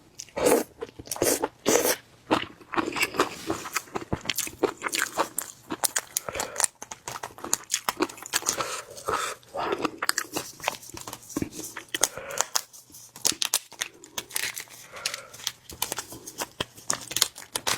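Close-up eating sounds: food being bitten, crunched and chewed, a rapid, irregular run of crisp clicks and crunches.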